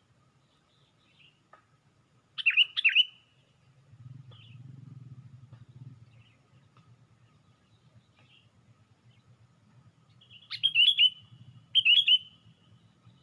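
Sooty-headed bulbul (kutilang) calling: a quick burst of short chirps about two seconds in and two more bursts near the end, with a few faint single notes between.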